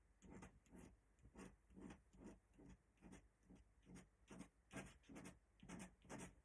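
Faint scratching strokes of ink drawing on paper, short and irregular, about two or three a second.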